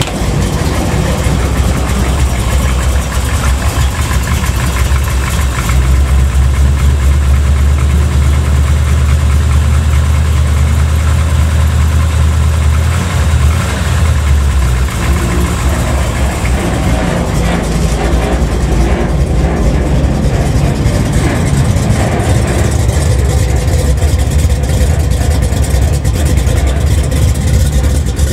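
Carbureted 406 cubic-inch small-block Chevy V8 in an S10 pickup, running on its own just after a cold start with a steady low exhaust note. The low end grows stronger for several seconds in the middle.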